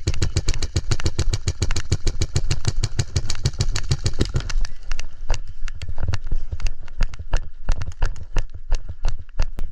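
Airsoft guns firing on full auto, a fast even stream of about fifteen shots a second lasting until about four and a half seconds in, then scattered single shots and short bursts.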